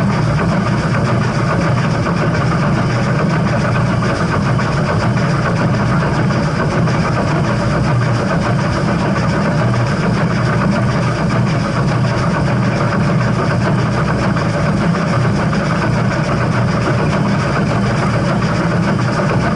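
Steam train giving a steady, continuous rumble, with no whistle and no distinct exhaust beats.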